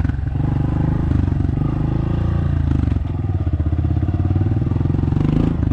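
Dirt bike engine running hard under throttle, the revs rising and falling as the rider works it, with a brief dip about three seconds in.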